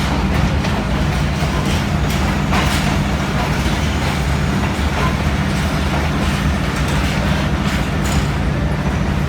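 Diesel-electric locomotive engine running with a steady low drone, with scattered clicks and knocks from the train over it.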